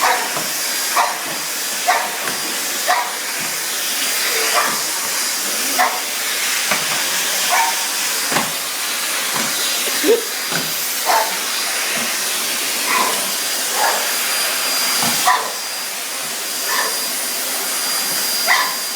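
Vacuum cleaner running steadily with a high motor whine, while a dog barks at it in short sharp barks about once a second.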